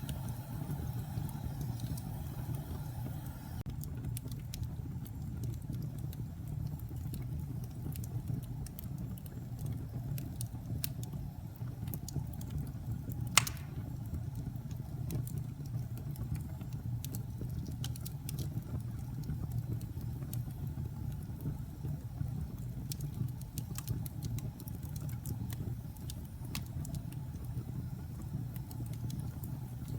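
Wood fire burning in a fireplace: a steady low rumble with scattered sharp crackles and one loud pop about halfway through.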